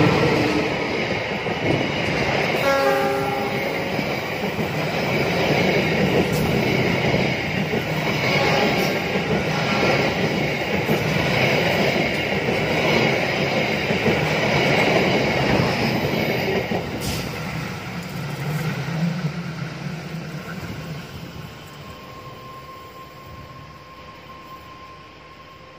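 A passenger train passing close by on the rails. The diesel locomotive goes by at the start, the loudest moment. The coaches' wheels then rumble along the track, with a short pitched tone about three seconds in. The sound fades steadily over the last several seconds as the train moves away.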